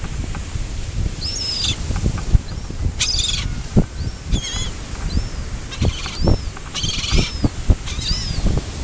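Small birds calling over and over, short high arched whistled notes about once a second, over a scatter of brief low thumps and a low rumble.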